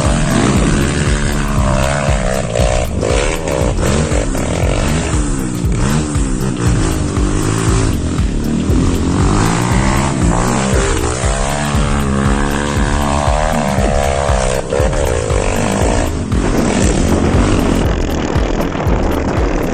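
Motocross dirt bike engines revving, their pitch rising and falling again and again as the throttle is worked.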